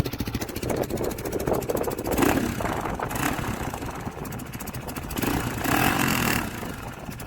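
Hero XPulse 200 4V's single-cylinder engine running at idle through an aftermarket Motowings Performance silencer, with a steady exhaust beat. It grows louder briefly twice, about two and six seconds in.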